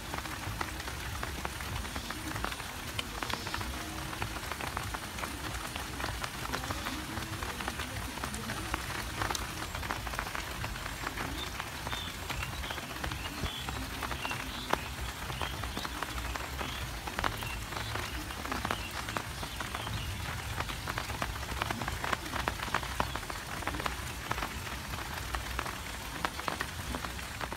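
Rain falling steadily on a rice paddy: a dense, even patter of drop ticks over a low rumble.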